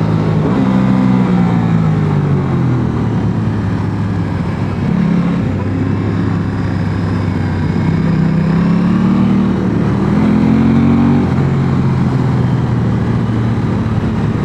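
Aprilia Tuono 660 Factory's parallel-twin engine under way, revs falling over the first few seconds, then climbing twice, with a sudden drop about eleven seconds in as it changes gear.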